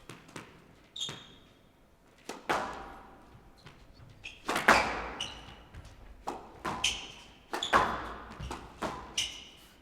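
Squash rally: the ball is struck by rackets and slaps off the court walls in sharp, irregular knocks, the loudest about halfway through. Court shoes squeak briefly on the wooden floor several times.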